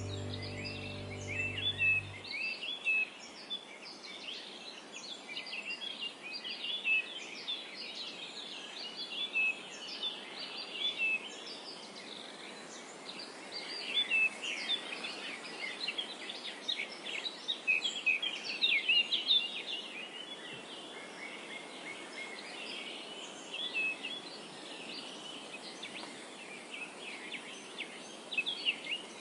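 A chorus of small birds chirping continuously over a steady background hiss, busiest in the middle. A music track ends about two seconds in.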